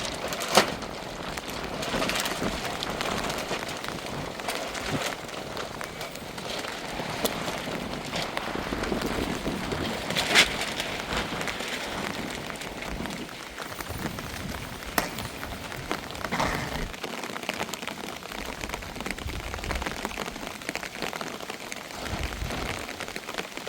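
Steady rain falling, with a few sharp knocks or drips standing out, the loudest about half a second in and about ten seconds in.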